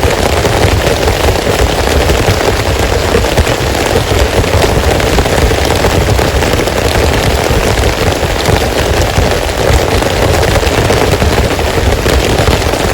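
Heavy rain falling, a loud, dense and steady patter of drops without let-up.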